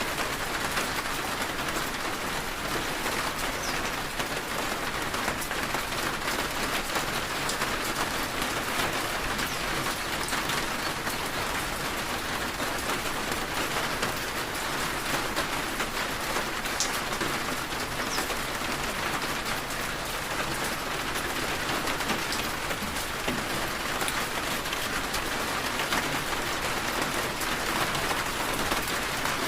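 Steady rain falling: a dense, even hiss with many small drop ticks, unchanging throughout.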